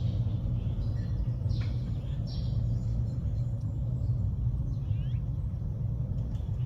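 Wild birds giving short, high chirps every second or so, several falling in pitch, over a steady low rumble that is the loudest sound.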